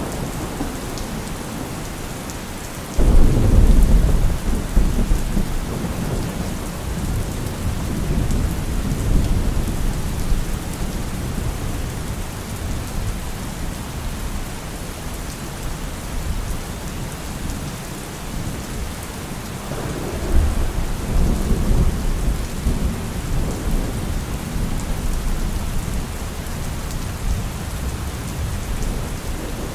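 Heavy, steady rain with thunder: a sudden loud clap about three seconds in that rolls away over several seconds, and a second, softer rumble about twenty seconds in.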